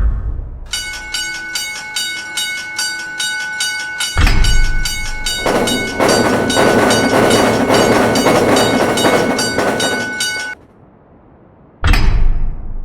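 Railroad crossing warning bell ringing rapidly, about three strokes a second, while a train runs through the crossing from about four seconds in with a loud rumble and clatter. Bell and train cut off suddenly at about ten and a half seconds, and a short loud burst follows near the end.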